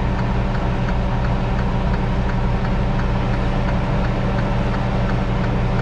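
Semi truck's diesel engine idling steadily, heard from inside the cab, with a faint regular ticking about three times a second.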